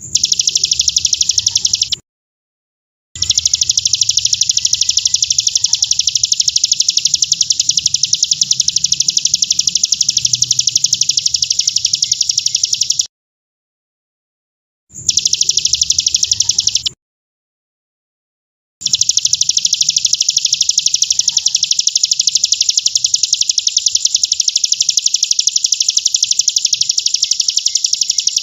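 A bird's high, very fast trill, held unbroken for long stretches. It cuts off abruptly into silence three times: about two seconds in, around thirteen seconds, and around seventeen seconds.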